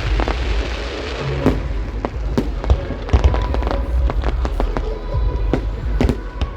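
Fireworks going off in a dozen or so sharp bangs and cracks at irregular intervals, with music playing at the same time.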